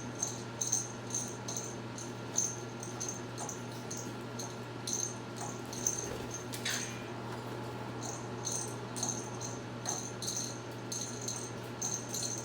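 Quaker parrots chirping: short high chirps repeated several times a second, with one downward-sweeping call about seven seconds in, over a steady low hum.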